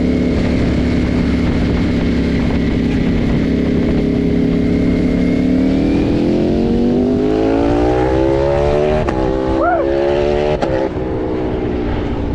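Ducati motorcycle engine running steadily, then rising in pitch for several seconds as it accelerates, over constant wind rush on the microphone. Near the end come two short chirps and a couple of sharp clicks.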